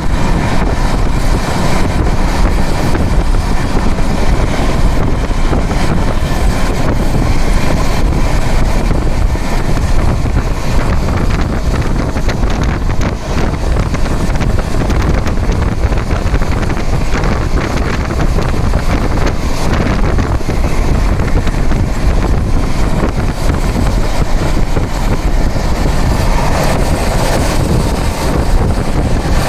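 Steady rumble of a train running at speed, with wind buffeting the microphone.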